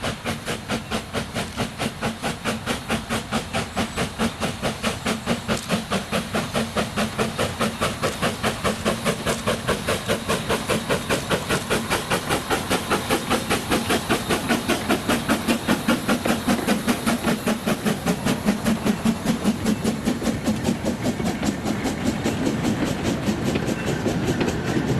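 Corpet-Louvet 0-4-0 tank steam locomotive working a train, its exhaust chuffing in a fast, even beat with steam hiss. The beats grow louder, then soften and blur together in the last few seconds.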